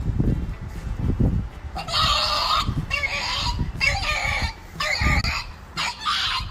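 Repeated harsh animal calls, about two a second, starting about two seconds in, over low rumbling handling noise.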